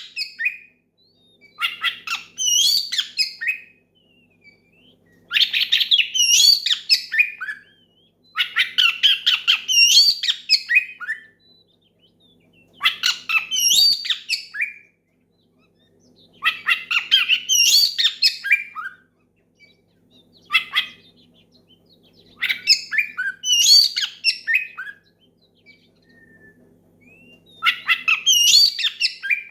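Oriental magpie-robin (kacer) singing loudly in repeated phrases of two to three seconds with short pauses between, each a fast run of sweeping whistles and chattering notes: the full, loud song a male uses to call out a rival. A faint steady hum lies underneath.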